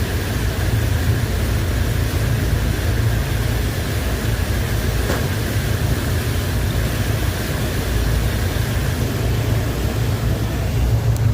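A boat engine running steadily with a low, even drone, over a haze of wind and water noise.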